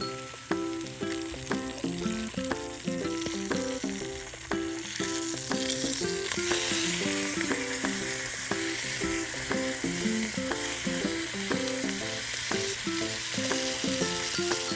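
Food sizzling as it fries, the sizzle growing louder about five seconds in, under background music of short, quick notes.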